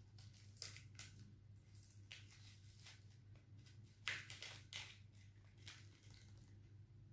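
Faint clicks and rustles of plastic food packaging being handled, over a steady low hum. The sharper clicks come about half a second and a second in, and again around four to five seconds in.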